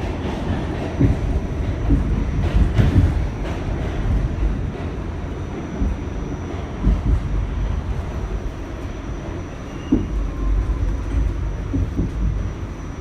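Interior of a Pullman-Standard R46 subway car running on the A line: a steady low wheel-and-track rumble, with irregular clacks and knocks over the rails and a faint steady high whine.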